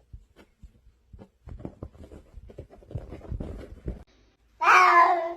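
Faint rustling and light tapping, then near the end a cat gives one loud meow that falls in pitch.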